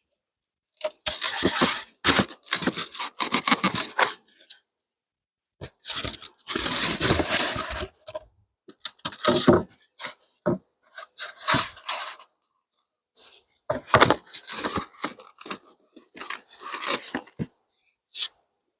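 Scraping and rustling in repeated bursts of one to two seconds, from handling a wooden beehive as it is closed up.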